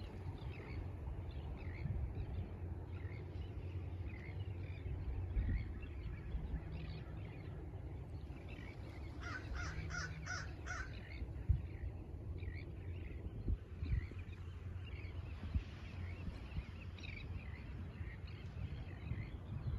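Birds calling on the shore: scattered harsh calls throughout, with a quick run of six or seven caws about halfway through, over a steady low rumble.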